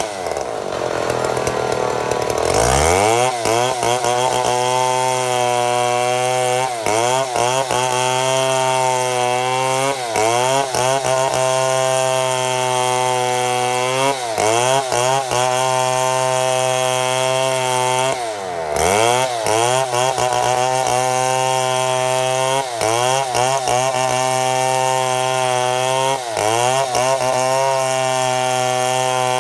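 Chainsaw running at high revs while ripping lengthwise through a mahogany log as a chainsaw mill cuts boards. Every few seconds the engine note sags under the load and picks back up, with a deeper bog near the start and another about two-thirds of the way through.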